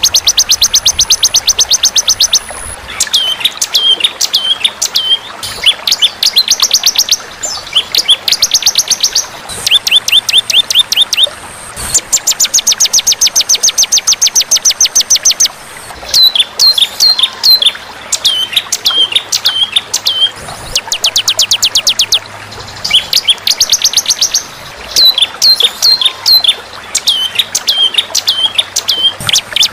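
Songbird masteran recording: loud, rapid high trills of roughly ten notes a second in bursts of one to three seconds, alternating with runs of short, hooked chirps about two a second, repeating throughout.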